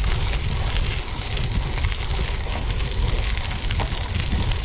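Wind buffeting a GoPro Hero 8's microphone while riding a gravel bike, a heavy rumble under a steady crackle of the tyres rolling over the trail.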